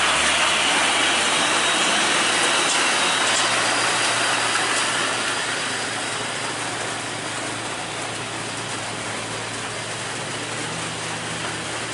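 Heavy truck engine running with a steady low hum under a broad hiss, getting gradually quieter from about halfway through.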